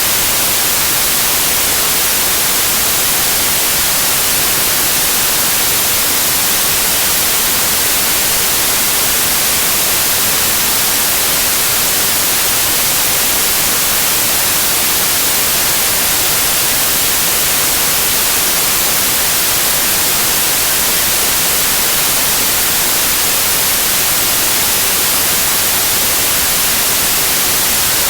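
White noise like TV static: a steady, unbroken hiss, strongest in the treble, that does not change.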